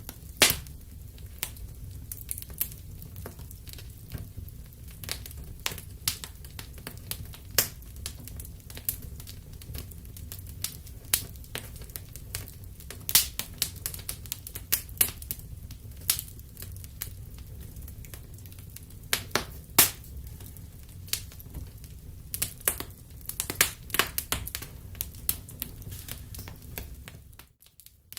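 Wood fire in a fireplace crackling, with irregular sharp pops of varying loudness over a low steady rumble of burning. The sound briefly drops away just before the end.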